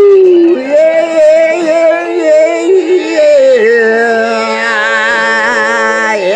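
Rock music ending: a distorted electric guitar bends and holds notes. The last long note has a wide vibrato and is cut off with a falling pitch slide.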